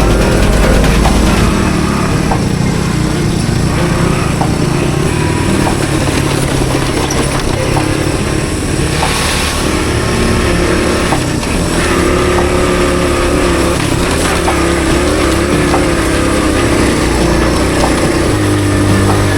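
Honda CT110 postie bike's small single-cylinder four-stroke engine running steadily under way, its pitch shifting a little as the throttle changes, with wind and riding noise over it.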